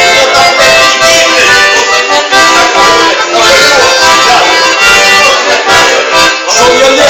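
Accordion playing a traditional-style tune loudly, with many notes and chords held at once.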